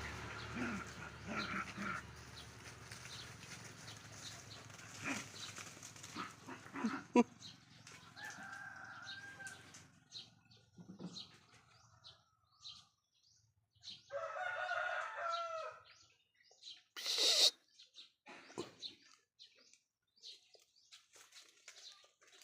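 Chickens in the yard: a rooster crows once about two-thirds of the way in, with a shorter call about eight seconds in. A short, loud rush of noise follows the crow.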